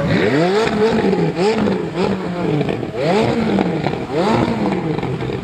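Performance car engine revved in a series of quick throttle blips, each rising sharply in pitch and falling back, with a short lull near the middle.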